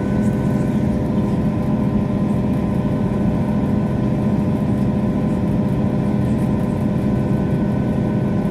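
Steady drone of a diesel passenger train's engine and running gear heard from inside the carriage, with a constant low hum and fixed whining tones over it.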